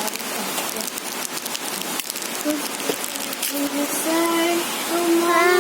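Steady rain falling, an even hiss scattered with short drop ticks.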